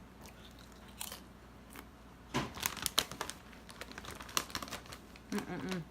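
Crinkling of a plastic chip bag as it is handled, in scattered crackles that bunch together a couple of seconds in.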